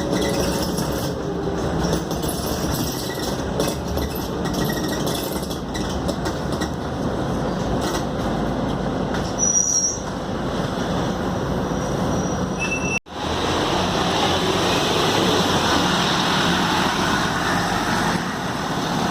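Scania K280UD double-decker bus running, heard from inside the cabin: a steady diesel engine drone mixed with road and body noise. The sound cuts out for an instant about two-thirds of the way through.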